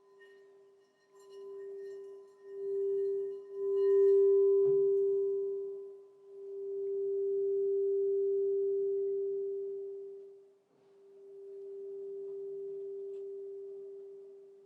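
Crystal singing bowl ringing one steady tone that swells and fades in slow waves, with a soft knock about five seconds in.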